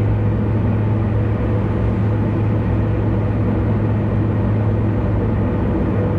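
Steady road noise of a car driving on an expressway: an even low drone of tyres and engine, with a strong hum in the bass.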